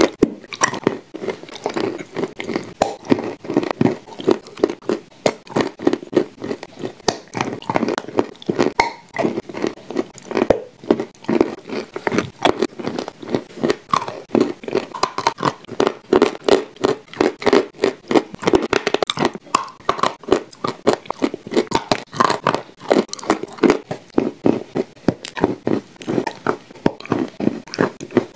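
Chewing and crunching of shortbread cookies coated in clay paste, a dense run of crackles several times a second.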